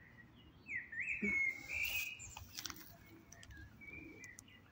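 Wild songbirds singing outdoors: a run of short chirps and quick whistled notes, busiest and loudest between about one and two seconds in, over faint steady outdoor background.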